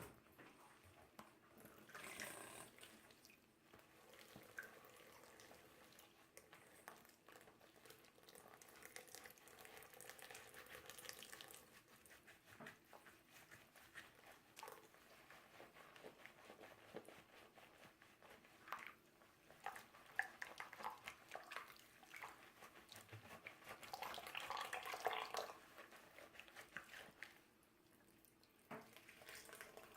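Faint water trickling and dripping while a doll's hair is washed in a sink, with small wet clicks from handling the hair. It swells a little about three-quarters of the way through.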